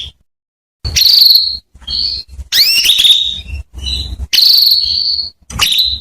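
Hen domestic canary calling: a run of short, high, upward-sweeping chirps and held whistled notes, about six in a row with brief gaps. These are the calls used as a lure to set male canaries singing.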